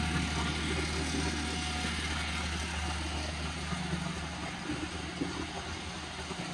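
A steady low mechanical drone, like a motor or engine running, with a few faint knocks over it.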